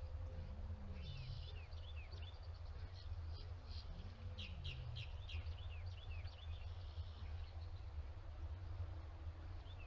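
Small birds chirping in quick, short, falling notes, thickest in the middle of the stretch, over a steady low rumble.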